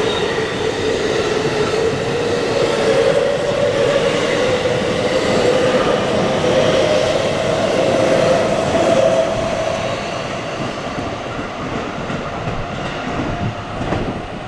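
Electric commuter train running past on the line, a motor whine rising slowly in pitch over about nine seconds above the rumble and clatter of wheels on the rails, the whole sound easing off after that.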